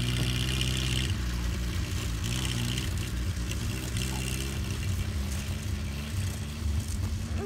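Austin 7's small four-cylinder side-valve engine running as the car drives off across the grass. The revs rise and fall back a few times, and the sound fades slightly as the car moves away.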